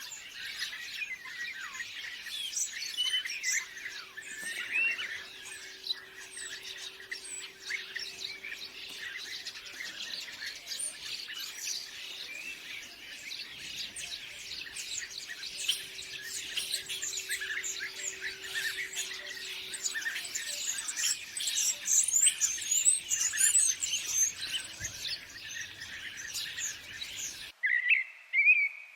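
Dense chorus of many small songbirds chirping and twittering over one another. About a second and a half before the end it cuts abruptly to a single bird giving a few clear whistled notes.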